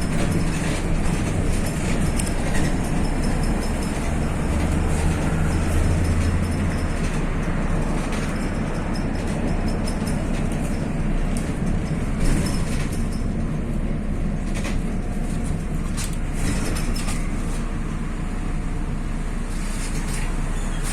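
MAZ-103 city bus heard from inside the passenger cabin while driving: steady diesel engine and road noise, the engine's low hum swelling a few seconds in. A few brief rattles and clicks from the body come through.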